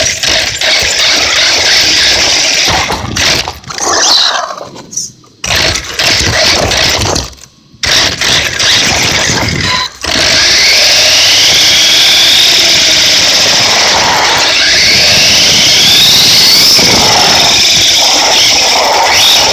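Electric radio-controlled monster trucks driving, with a motor whine that rises in pitch several times as they speed up over a loud rushing noise. The sound drops out briefly twice in the first half, then runs steady and loud from about halfway.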